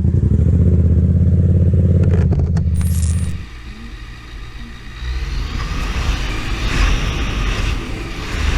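A motorcycle engine idling steadily, cut off suddenly a little over three seconds in. It is followed by a quieter, even rush of riding noise.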